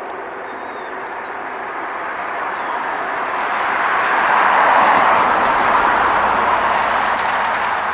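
A passing vehicle: a steady rushing noise that builds to a peak about five seconds in and then fades away.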